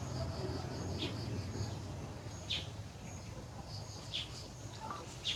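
Short, high-pitched animal chirps, four of them spread a second or more apart, with fainter high peeps between them over a steady low hum.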